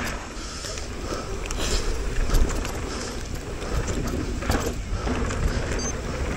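Mountain bike riding down a rough dirt trail: tyres rolling over dirt with frequent clicks and knocks of the chain and frame rattling over bumps, over a constant rush of wind on the helmet microphone.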